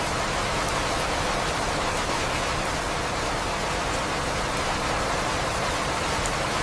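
Steady rain falling, a constant even hiss with a few faint drop ticks.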